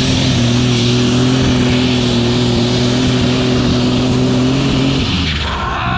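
Superstock pulling tractor's turbocharged engine running flat out at a steady pitch with a loud hiss over it, then winding down about five seconds in, its pitch falling as it comes off the throttle.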